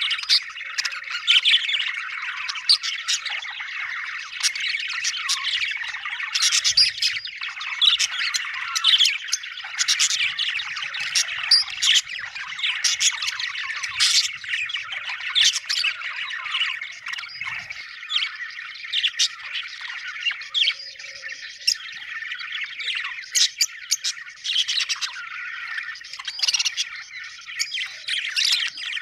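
A flock of budgerigars chirping and chattering without pause, with frequent sharp, loud squawks standing out over the warbling.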